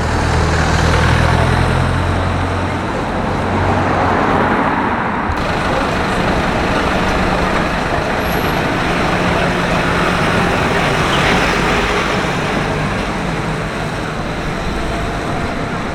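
Road traffic on a city street: vehicle engines running and tyres on the road, with a low engine hum that is strongest for the first few seconds.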